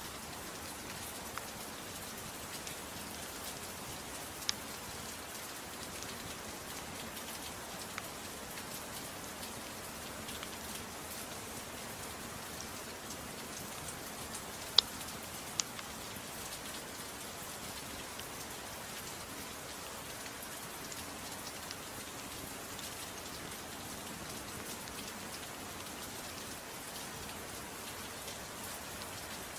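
Steady soft rain hiss with a few sharp pops from a crackling wood fire, the loudest about halfway through.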